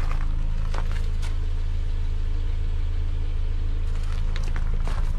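Subaru Outback's 2.5-litre flat-four engine idling steadily, a low even hum, with a few light footstep clicks.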